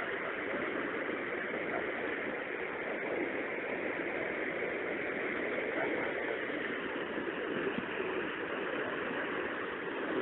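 Floodwater running after heavy rain, a steady rushing noise without breaks.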